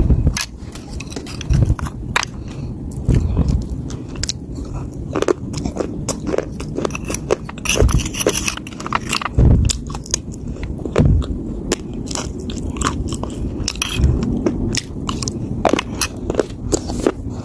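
Close-up crunching and chewing of dry, hard chunks of earth and clay being bitten and ground between the teeth: many sharp, irregular crunches with duller chewing between them.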